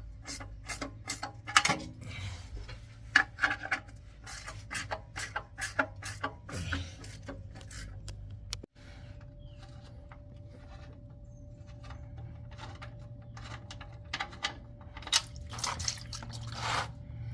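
Metal clicks and knocks from a wrench working the oil drain plug, then, after a cut about halfway, a steady stream of old engine oil draining from the 1989 Dodge D100's oil pan into a catch container. The oil is thin, almost like water, which the owner takes for oil in poor condition.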